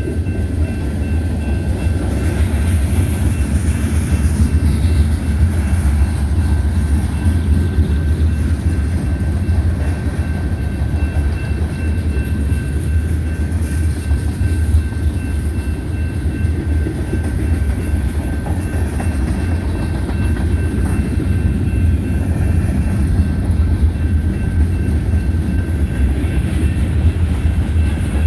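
Manifest freight train rolling past, a steady heavy rumble of railcars on the rails with no let-up. A thin, steady high whine runs beneath it.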